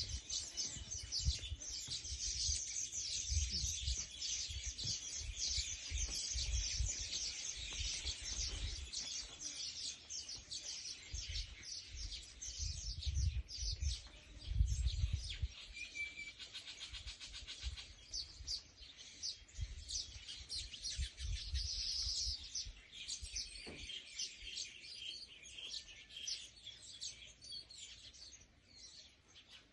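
Small birds chirping: a dense, continuous stream of short, high-pitched calls, with a low rumble underneath during roughly the first half.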